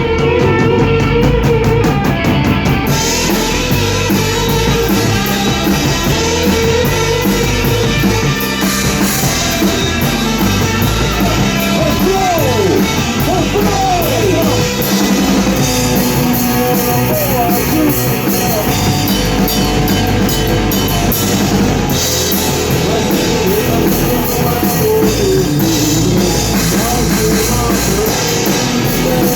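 Rock band playing loud in rehearsal: drum kit, electric guitars and bass. About twelve seconds in, the guitar plays sliding bends.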